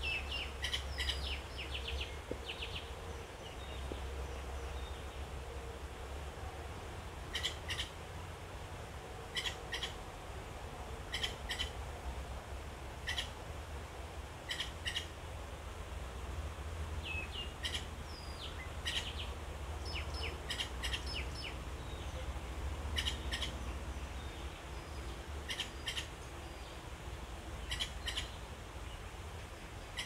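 A bird in the trees calling over and over: short, sharp chirps in clusters of two or three, repeated every couple of seconds. A steady low rumble runs underneath.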